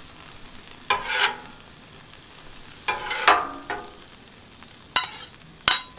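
Sirloin steak, onions and bell peppers sizzling on a Blackstone flat-top griddle's steel cooking surface, with a metal tool scraping and clinking against the griddle top about five times as the food is turned.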